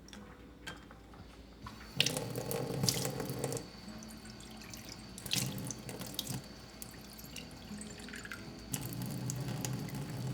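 Kitchen tap running into a sink in three spells, with sharp clicks and knocks between them.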